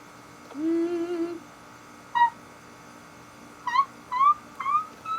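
A person humming a short, wavering note, followed by four short, high, rising squeaks spread over the last three seconds.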